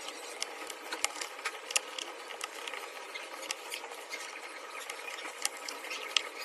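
Small tools working inside an opened smartphone: scattered light clicks and faint scraping of metal and plastic parts, irregular and close up.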